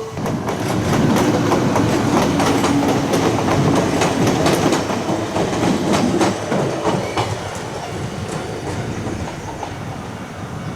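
Iga Railway electric train passing over a level crossing, its wheels clacking rapidly over the rail joints above a steady running hum; the sound eases off after about seven seconds as the train goes by.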